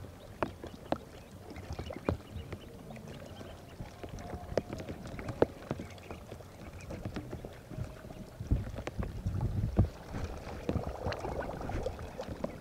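Irregular knocks and clicks with a few low thumps, over a steady faint background.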